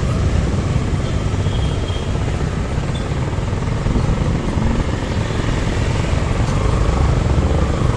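Suzuki Gixer SF motorcycle riding along, its engine running under a steady low rumble of wind buffeting the microphone.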